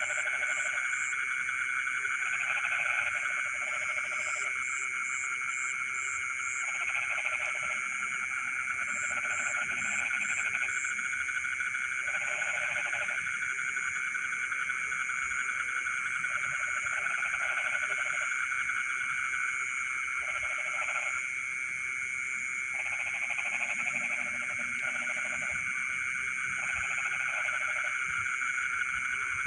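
Night chorus of frogs in a rice field: a dense, steady massed trilling. Over it, nearer frogs call in pulsed croaks lasting about a second, every couple of seconds. In the first half there are also short runs of quick, high chirps.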